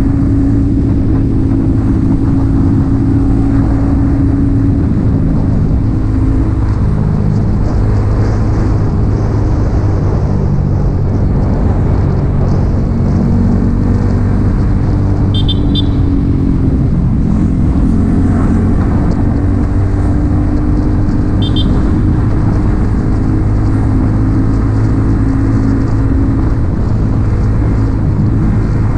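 Yamaha XSR 155's single-cylinder engine with an aftermarket M4 exhaust, running under way. The engine note drops about a quarter of the way in and climbs again past the middle.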